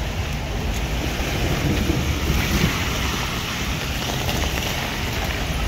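Steady rain on a wet street with cars driving through the water, their tyres hissing, and wind rumbling on the microphone.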